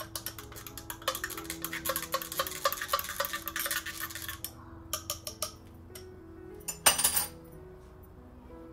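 A metal utensil clinking rapidly against a pot or bowl while stirring, with a few more scattered clinks afterwards and a short, louder noise about seven seconds in. Soft background music plays underneath.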